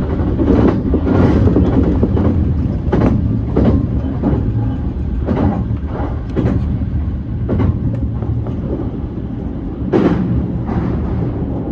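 JR East E235-1000 series electric train running along the line: a steady rumble of wheels on rail, broken by irregular clacks as the wheels pass over rail joints and points.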